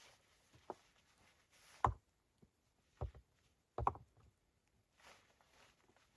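Four short thuds or knocks, irregularly spaced, the loudest about two seconds in, with soft rustling between them.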